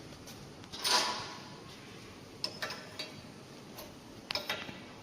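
A circular saw blade grinder being worked by hand: a short, louder metallic clatter about a second in, then a string of separate sharp metallic clicks, two or three close together near the end.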